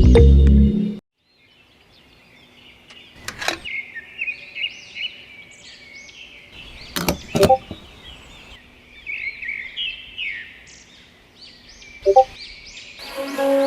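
Small birds chirping in quick repeated calls, with a few sharp clicks in between. Music cuts off about a second in, and a steady horn-like tone starts near the end.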